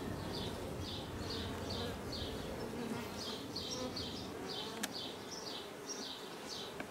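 Honey bees buzzing around an opened nuc box, over a high chirp that repeats about two to three times a second. One sharp click comes a little after the middle.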